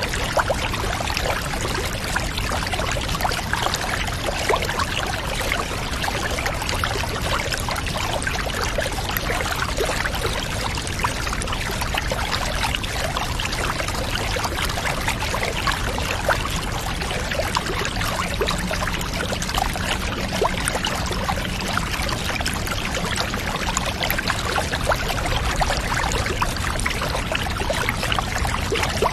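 Steady running, trickling water, dotted with many small sharp clicks.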